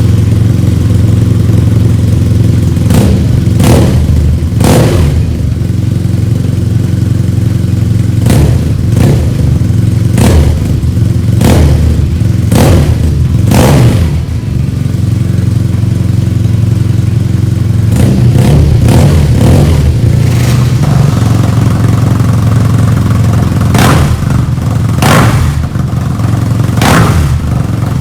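BMW R nineT's boxer twin engine running loud through an HP Corse GP7 aftermarket exhaust: a steady lumpy idle broken by a series of short, sharp throttle blips, some in quick pairs or threes.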